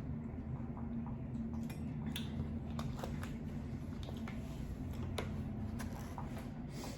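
Close-miked chewing of lo mein noodles, with irregular small wet clicks and squishes of the mouth, over a steady low room hum.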